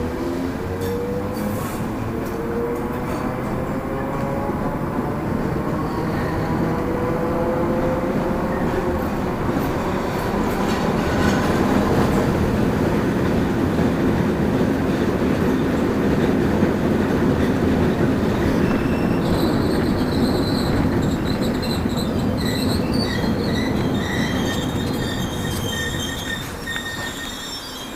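A train running past close by on its rails with a steady rumble. A motor whine glides in pitch through the first several seconds. In the second half the wheels squeal in high, wavering tones, and the sound then dies away near the end.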